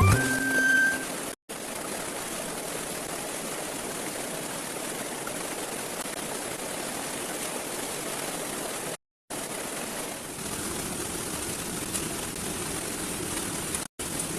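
Steady rushing of water, an even hiss with no rhythm. It cuts out to dead silence three times, briefly.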